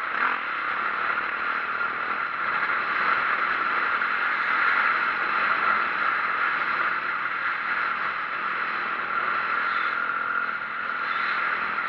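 2004 Yamaha YZ450F four-stroke dirt bike being ridden: a steady, dense rush of engine and wind noise that swells a little and never breaks.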